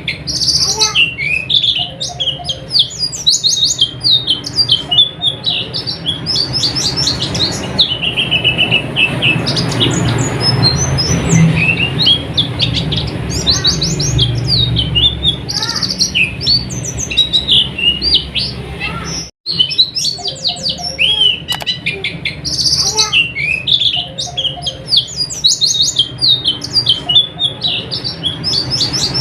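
White-eye (pleci) song: rapid, high-pitched twittering in quick repeated phrases with short pauses between them. The sound cuts out for a split second about two-thirds of the way through.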